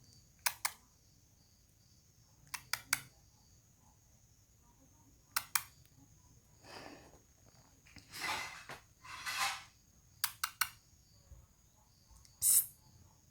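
A person's mouth calls to a cat: short sharp clicks in groups of two or three, then breathy hisses, ending in a sharp high 'psst' near the end.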